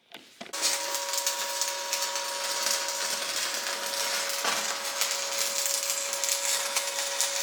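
Electric arc welding a nut onto a seized crankshaft pulley bolt, so that the bolt can be heated and turned out: a steady crackling sizzle with a constant thin whine, starting about half a second in.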